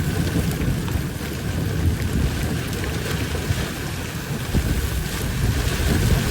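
Rain falling steadily in a storm, with wind rumbling on the microphone and a few faint sharp ticks.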